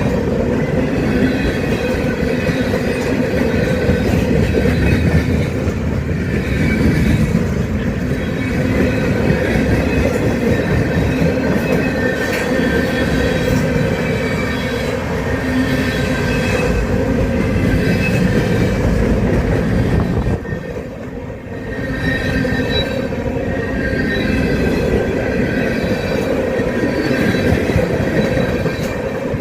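CSX freight train's cars rolling past: a steady, loud rumble with thin high-pitched wheel squeal running through it. The sound briefly drops about two-thirds of the way through, then picks back up.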